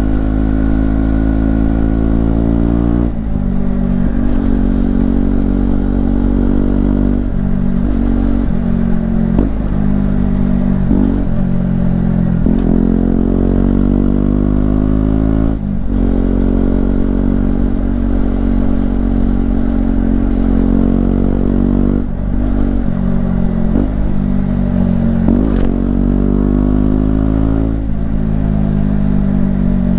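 KTM Duke 125's single-cylinder four-stroke engine under hard riding, the revs climbing in pitch and then dropping at each gear change, many times over.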